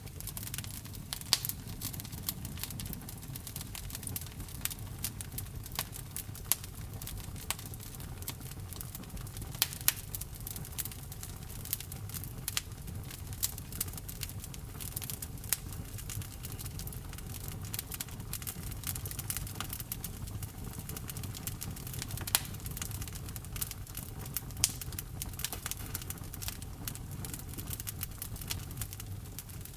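Wood logs burning in a fireplace, crackling with a dense, irregular patter of small snaps over a low rumble of the flames. A few louder, sharper pops stand out at scattered moments.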